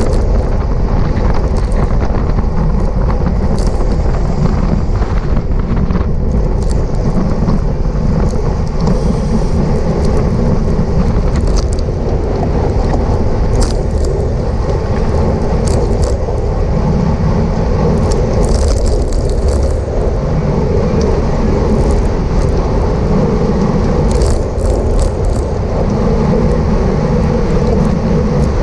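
Steady wind rush and road rumble on the microphone of a camera riding along on a road bicycle, with brief high-pitched ticks scattered through it.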